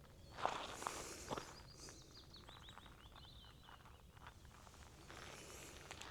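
Footsteps while walking outdoors, three sharper steps in the first second and a half, and a small bird chirping a quick run of short high notes in the second and third seconds.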